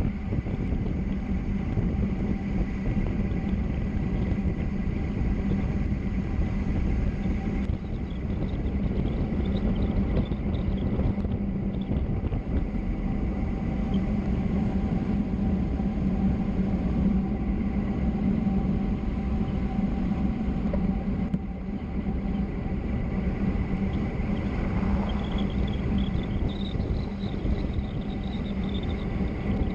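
Steady rumble of road and wind noise from fast downhill travel, with a constant low hum underneath.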